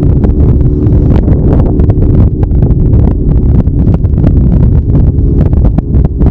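Heavy wind buffeting on the microphone of a moving motorcycle, with the Kawasaki Zephyr 750's air-cooled inline-four engine running at steady revs underneath.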